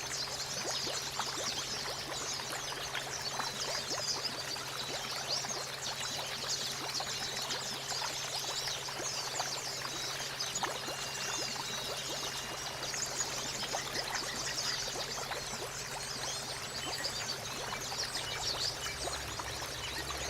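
Running water pouring and trickling steadily, with a dense high crackle of small splashes throughout.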